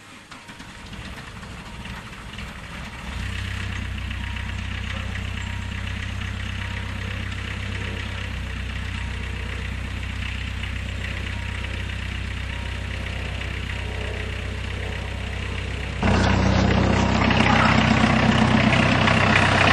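Volkswagen diesel engine from a 1992 Jetta, idling steadily in a van just after a cold start at minus 13 °C without a block heater. It steps up in level about three seconds in and gets abruptly louder near the end.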